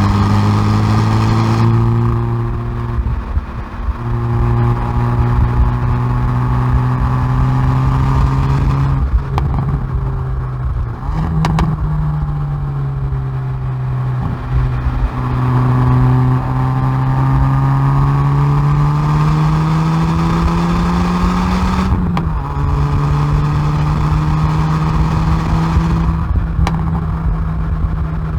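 Hyundai i30N Performance's turbocharged four-cylinder, heard from the exhaust at the rear bumper, driven hard on a race track. The engine note climbs under acceleration and drops at each upshift. About ten seconds in it falls away under braking and downshifts, with a few sharp cracks.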